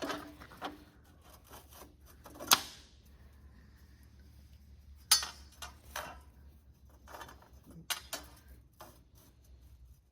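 Sharp metallic clinks and knocks of steel steering-clutch parts being handled and fitted together: three loud clanks about two and a half seconds apart, with lighter ticks between them.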